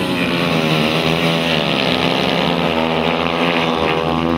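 Several youth speedway motorcycle engines racing together at high revs, their pitches overlapping and rising and falling as the riders go on and off the throttle.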